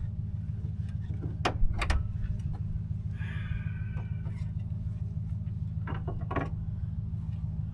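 An engine idling with a steady low hum. Over it come sharp clicks and knocks, two about a second and a half in and two more around six seconds, with a brief scraping rustle around three seconds.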